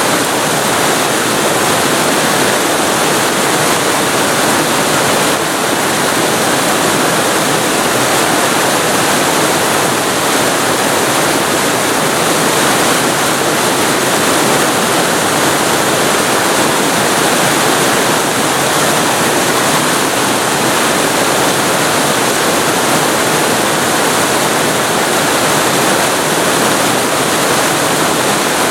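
Waterfall recorded very close to the falling water: a loud, steady, dense rush of water that does not change.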